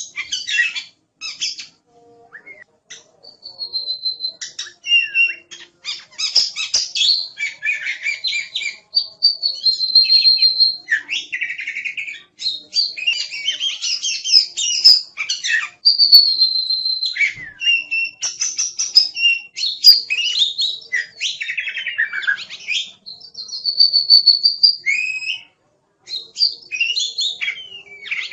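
Oriental magpie-robin (kacer) singing vigorously: a varied run of clear held whistles, rapid chirps and down-slurred notes, in phrases broken by short pauses.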